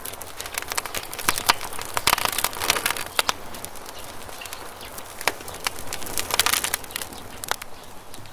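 Campfire burning wood, crackling with many sharp pops that come thickest in two flurries, about two seconds in and again about six seconds in.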